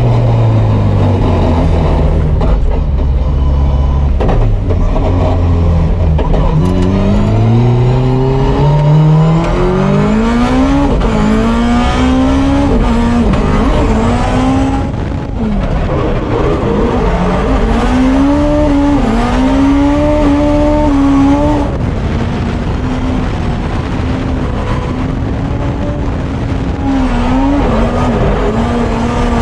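Drift car engine driven hard. Over several seconds the revs climb in a series of short rising steps, fall back briefly, then are held high with small dips and rises.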